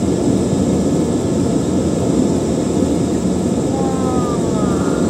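Steady roar of a jet airliner in flight, heard from inside the aircraft's lavatory, with a thin high whine above the low rumble.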